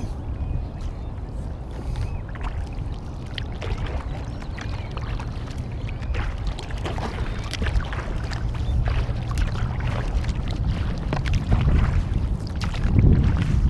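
Kayak paddle strokes splashing and dripping in lake water, with a low wind rumble on the microphone that grows louder near the end.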